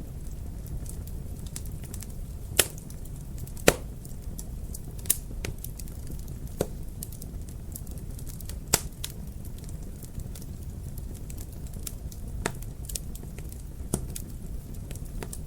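Wood fire crackling in a fireplace: a steady low rush of burning with sharp, irregular pops and snaps, a few louder ones standing out.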